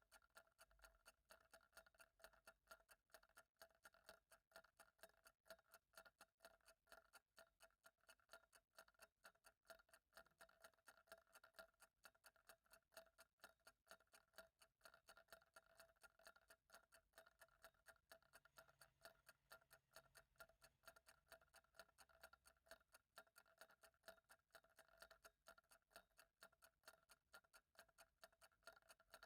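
Faint, even ticking of a clock, a few ticks a second.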